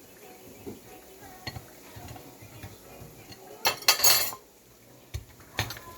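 Kitchen utensils and cookware knocking and clinking, scattered light taps with a loud burst of clattering about two-thirds of the way through, then two sharp knocks.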